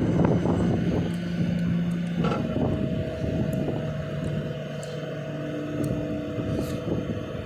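GMC C5500 rollback tow truck's engine running with a steady drone, its pitch shifting slightly about two seconds in, and gradually getting quieter.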